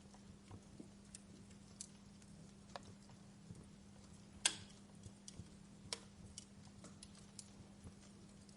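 Wood fire crackling in a fireplace: scattered small snaps and pops at irregular intervals, with one louder pop about halfway, over a faint steady hum.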